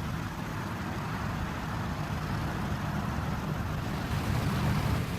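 Steady low rumble of motor-vehicle noise with no distinct events.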